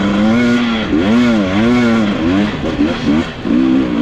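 Dirt bike engine revving up and falling back again and again in short throttle bursts, about six times in a row, as the rider works the throttle over rough ground.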